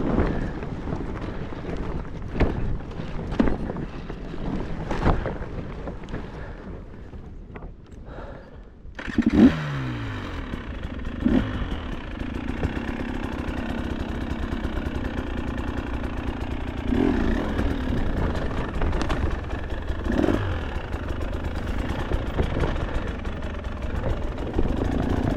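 KTM two-stroke enduro dirt bike engine running under changing throttle, with sharp knocks of the bike over rough ground. About nine seconds in, after a brief lull, it comes back with a sudden burst and falling pitch, then runs steadily with a few short revs.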